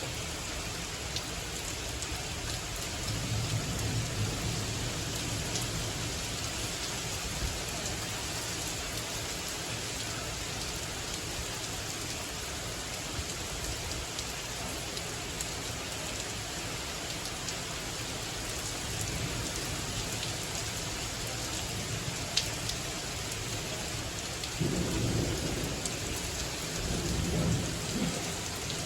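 Steady hiss of heavy rain falling during a thunderstorm, with low rolls of thunder swelling about four seconds in and again near the end, and a few sharp ticks of drops striking close by.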